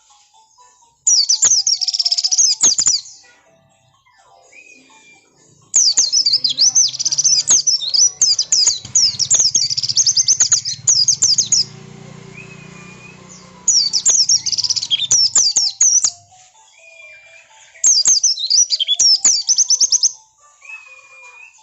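Oriental white-eye (pleci) singing in bursts of rapid, high-pitched chirps, four bursts in all, the longest about six seconds. It is a lure recording of an insistent white-eye, meant to make other pleci answer.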